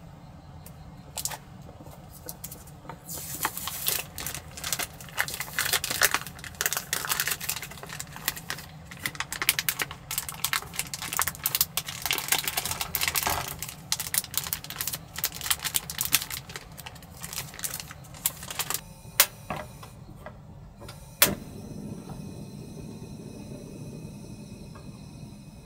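A dense run of light clicks and crackles, like small objects being handled, lasting about fifteen seconds, then a few separate knocks, the last and loudest about three-quarters of the way in. A steady low rumble runs underneath.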